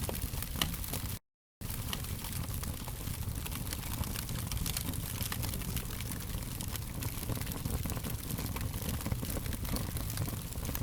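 Fire crackling: a steady low rumble and hiss scattered with frequent small sharp pops. Just over a second in, the sound cuts out completely for about half a second, then resumes.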